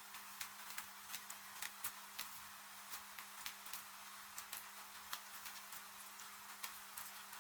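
Wood fire crackling with irregular sharp pops, several a second, over an even hiss of falling rain, with a faint steady low hum beneath.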